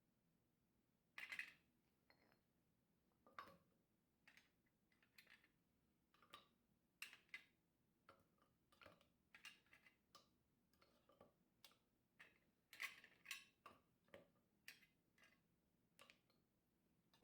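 Faint, irregular light clicks and taps, about one or two a second, with a louder cluster about a second in and again around two-thirds of the way through.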